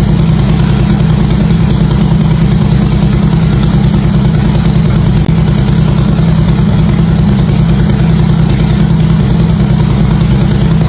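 Harley-Davidson V-twin engine idling steadily through its exhaust, loud and even, with no revving.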